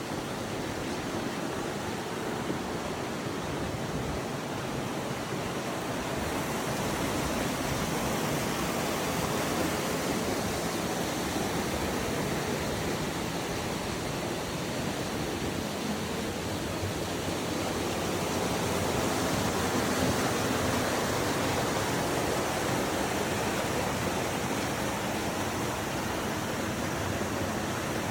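Fast-flowing river water rushing through a canyon, a steady wash of white-water noise that grows a little louder about eight seconds in.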